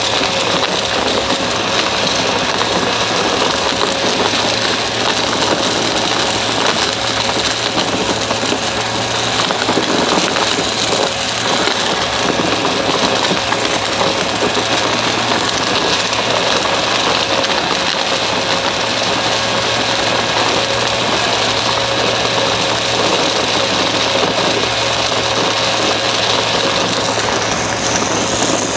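Upright vacuum cleaner running steadily, a motor hum with a high whine over the rush of suction.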